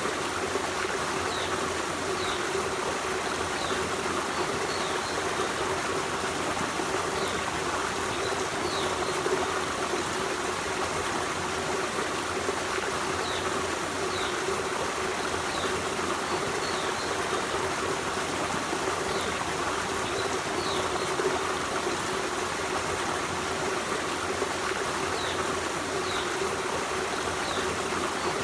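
Forest stream running steadily over stones, with a trickling, burbling water sound. Faint short high chirps come in small groups every few seconds.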